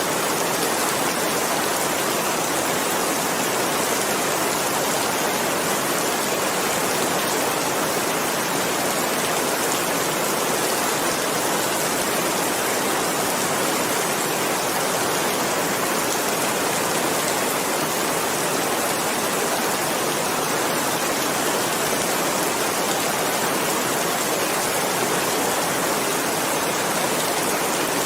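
Steady, even rainfall, a dense hiss of drops without pauses or distinct individual impacts.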